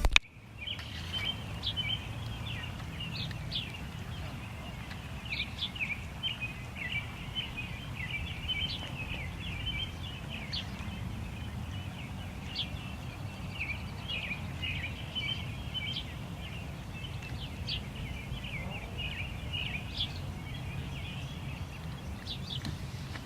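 A chorus of many small birds chirping and twittering without a break, over a steady low rumble of outdoor background noise.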